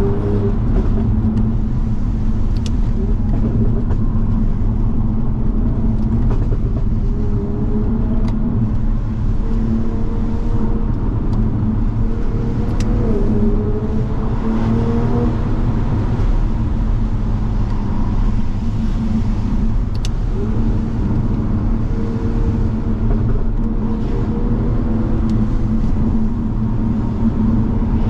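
Toyota Supra MK5's turbocharged straight-six running under steady driving, its pitch slowly rising and falling with the revs, over constant low road noise and tyre noise on a wet road.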